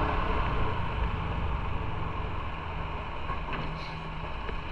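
Motorcycle engine running steadily, with road and wind noise.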